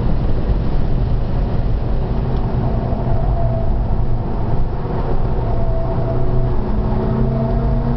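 SEAT Altea FR's engine running hard at track speed under a dense rumble of road and wind noise. The engine note holds fairly steady, then rises a little near the end.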